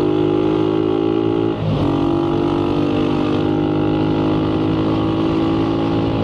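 Motorcycle engine accelerating, its pitch climbing steadily, with a brief drop about a second and a half in as it shifts up a gear before pulling again.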